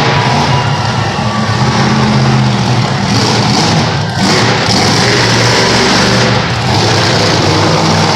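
A 496-cubic-inch, 1,400-horsepower monster truck engine running loud under heavy throttle, with a brief let-up about four seconds in.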